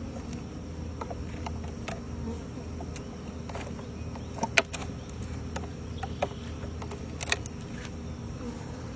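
A honeybee colony buzzing steadily, with scattered sharp clicks and knocks from working the wooden nuc box and frames apart, two louder knocks about four and a half and seven seconds in.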